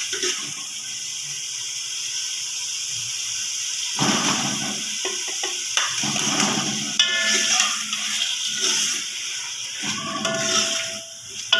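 Hot oil and spice masala sizzling in a cooking pot with a steady hiss. From about four seconds in it gets louder and more uneven as raw chicken pieces go into the oil and a spoon stirs them.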